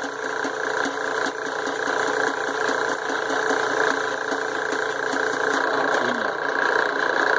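Power drill running steadily with an even pitch as it bores a hole through a Damascus steel billet.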